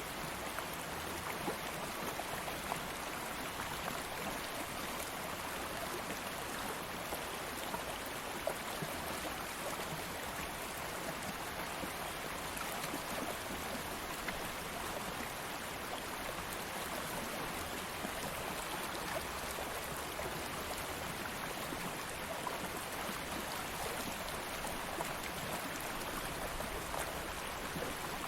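Stream of water flowing steadily, an even rushing and trickling with small splashes and no change in level.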